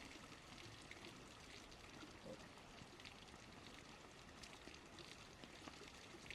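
Near silence: a faint, steady outdoor background hiss with a few faint ticks.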